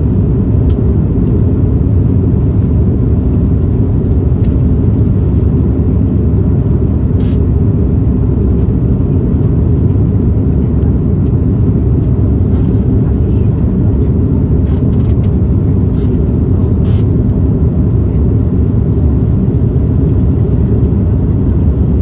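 Cabin noise aboard an Airbus A330-300 in flight: a steady, loud low rumble of its Rolls-Royce Trent 700 engines and the airflow, with a few faint clicks.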